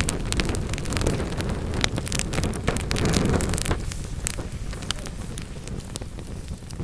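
Wood fire crackling, with many sharp pops over a low rush of burning logs; the low rush weakens a little past halfway while the crackles go on.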